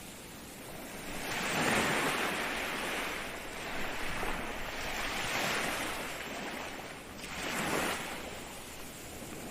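Ocean waves breaking in steady surf, the rush of water swelling up in one long surge through the first half and a shorter surge near the end.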